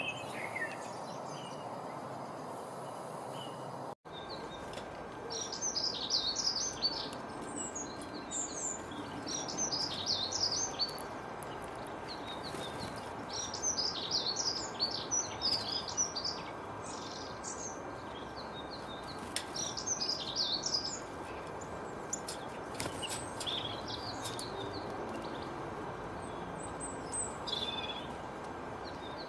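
Birds singing and chirping in clusters of quick high trills, over a steady background hiss. The sound drops out for an instant about four seconds in, as at an edit.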